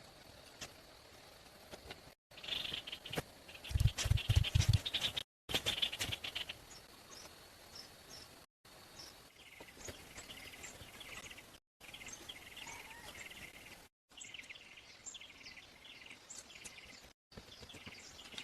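Birds chirping over outdoor ambience, the sound broken by several sudden silent cuts. About four seconds in, a burst of rapid heavy knocks stands out as the loudest part.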